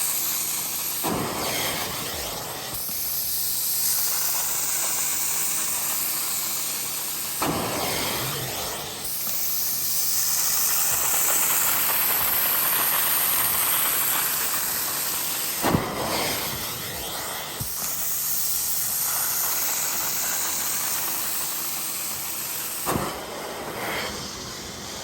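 Upholstery cleaning extractor's hand tool spraying and sucking on fabric, a steady loud hiss with a brief sharp change about every seven to eight seconds, as each stroke begins.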